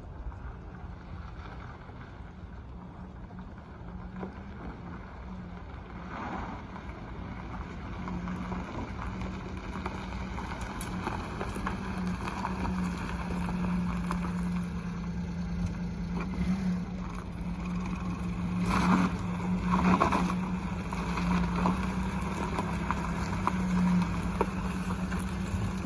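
A 1991 Mitsubishi Minicab kei truck's engine running with a steady hum, growing gradually louder, with two brief louder surges about three quarters of the way through.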